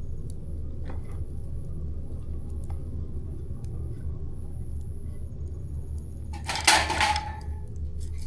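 Campfire burning with a steady low rumble and scattered faint crackles, then a loud burst of crackling about six and a half seconds in that lasts around half a second.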